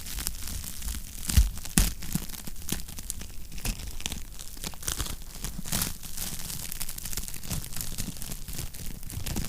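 Fireplace fire crackling steadily, with irregular sharp pops and two louder pops about a second and a half in.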